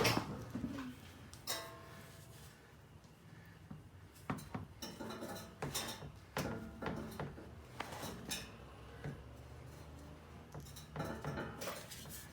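Irregular metallic clinks and clanks, a few with a short ring, as metal tools and parts are handled and knocked together during an exhaust install.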